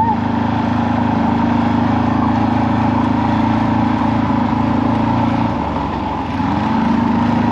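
Off-road vehicle engine running steadily under way, easing off about five and a half seconds in and picking up again about a second later.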